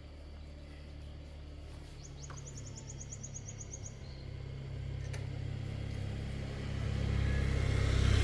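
A passing motor vehicle's engine rumbles, growing steadily louder as it draws near. About two seconds in, a bird gives a quick high trill of some ten rapid chirps.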